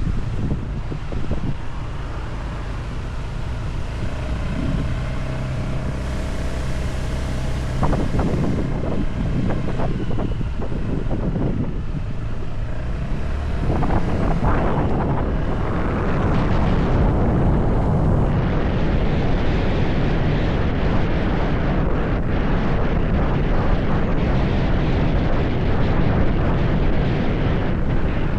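Motorcycle engine running while riding, mixed with heavy wind buffeting on the microphone. It gets louder and fuller about halfway through.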